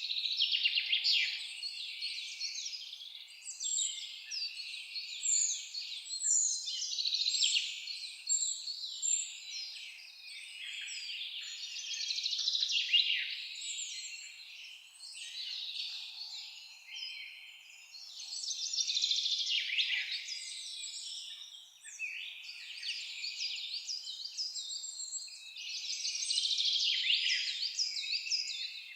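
Many songbirds singing at once in a dense forest chorus of high chirps and trills. The chorus swells and eases every few seconds.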